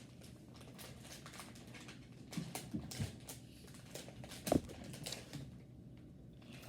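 Faint scattered clicks and rustles of people eating strawberry mochi: chewing and handling the snack. There are a few brief low hums, the first about two seconds in and one more near the middle.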